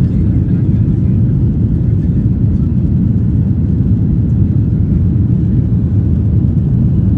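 Airliner engines and airflow heard from inside the passenger cabin during the takeoff flight: a steady, loud, low rumble.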